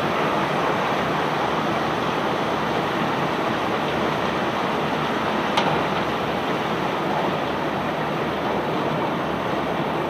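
Steady rushing noise of a self-unloading barge discharging its cargo, with one sharp click about five and a half seconds in.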